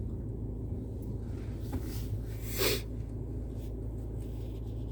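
Steady low road and engine rumble inside a moving car's cabin, with one short hiss about two and a half seconds in.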